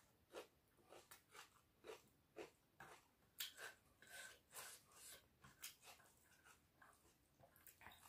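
Faint wet chewing and lip-smacking of someone eating pork and rice with her fingers: a string of irregular mouth smacks and clicks, about two a second.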